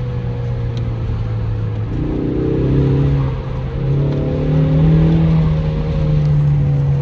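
The turbocharged 2.3-litre four-cylinder EcoBoost engine of a 2025 Ford Mustang running under way as a steady drone, with road noise; its pitch steps up slightly about two seconds in and again a little after four seconds.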